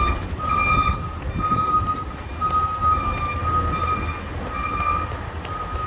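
Garbage truck backup alarm beeping at a steady, even pace while the truck reverses, over the low steady run of its diesel engine.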